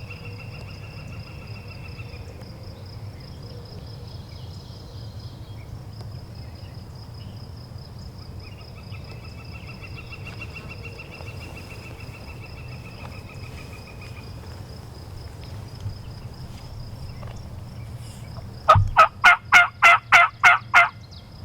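A loud series of about nine wild turkey yelps, evenly spaced at roughly four a second, near the end. Before it, faint bird trills are heard twice over a steady high hum.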